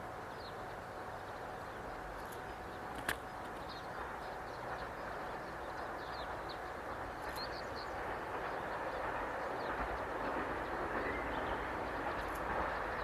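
Diesel train running on the line, a steady rumble that grows louder toward the end, with short bird chirps and one sharp click about three seconds in.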